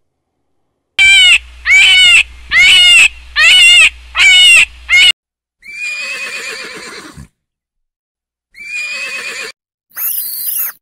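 Horses whinnying: a run of five loud, short calls, then two longer quavering whinnies, and a brief shrill squeal near the end.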